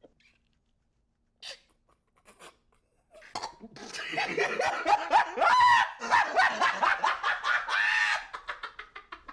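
Hard, high-pitched laughter from a person starting about three seconds in, a quick run of rapid repeated laughs with rising and falling pitch that fade near the end.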